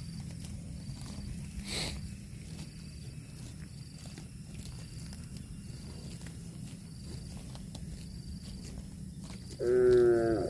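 A cow gives one short, loud moo near the end, over a steady low rumble.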